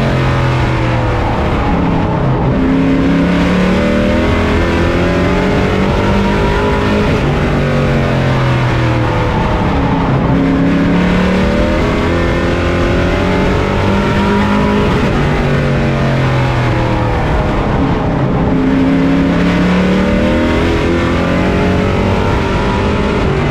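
Race truck engine heard from on board at racing speed, its pitch dropping as the driver lifts for the turns and climbing again down the straights, over and over, with steady road and wind noise underneath.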